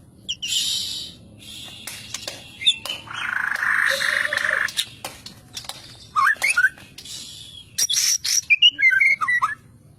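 White-rumped shama (murai batu) singing: harsh rasping notes alternating with quick, sliding whistled phrases and sharp clicks.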